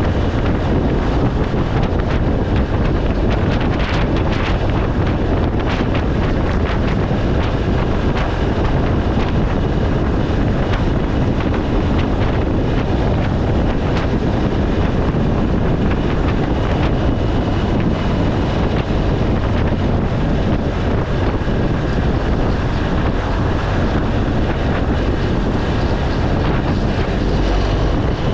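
Wind noise buffeting the microphone of a moving BMW R1200 GS Adventure motorcycle, with its boxer-twin engine running steadily underneath.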